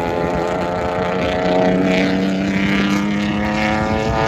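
Race car engine running at speed on the circuit, a sustained engine note whose pitch shifts slowly as the car drives by.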